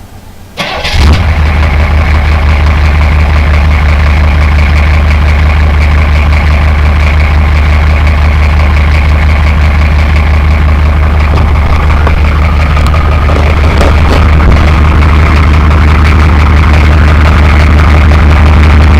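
1990 GMC's 6.2-litre V8 diesel, through a Banks exhaust, starting cold at about 41 °F: it fires about a second in and settles into a loud, steady idle.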